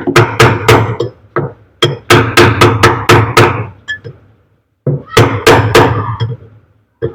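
Hammer blows on the metal gearbox assembly of a top-load washing machine, knocking it back to free it: three quick runs of sharp, ringing knocks, about five a second.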